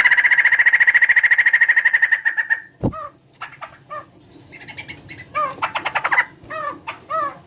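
A laughingthrush (poksay) calling: a loud, fast rattling trill lasting about two and a half seconds, then after a pause a run of short, arched notes repeated about twice a second.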